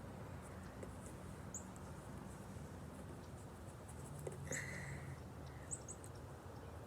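Faint small squeaks and clicks of a shaving-cream and glue slime being handled and squished, over a low steady hum, with one slightly louder squish about four and a half seconds in.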